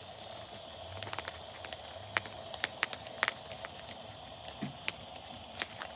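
Steady hissing with scattered sharp crackles and pops from a firework burning inside a plastic toy washing machine.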